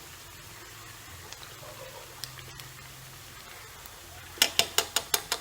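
Oil frying steadily in a pan of chicken pieces. Near the end comes a quick run of about six sharp clicks in under a second.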